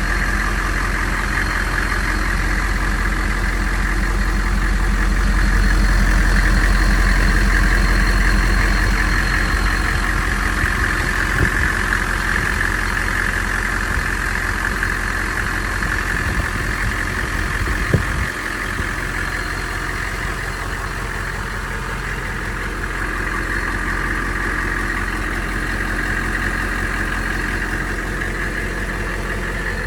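Humvee's 6.5-litre AM General diesel engine idling steadily, with one sharp click a little past halfway.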